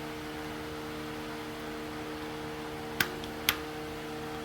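Two sharp metallic clicks about half a second apart, about three seconds in, from a click-type torque wrench breaking over at its setting while a cylinder head bolt is tightened to 60 ft-lb. A steady shop fan hum runs underneath.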